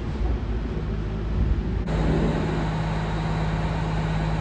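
Diesel train engine running with a steady low rumble and hum. About two seconds in, the sound changes abruptly to a steadier hum with one strong low tone and a faint high whine.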